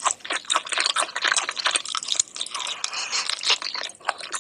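Close-miked ASMR eating sounds: a person's mouth biting and chewing food, a dense run of rapid crisp crunches.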